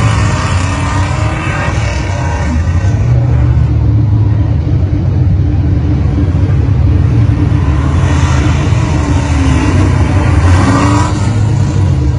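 A car's engine revving hard as it accelerates away on an autocross run through a cone course, its pitch climbing in the first second or so and rising and falling again later as it speeds up and lifts between cones.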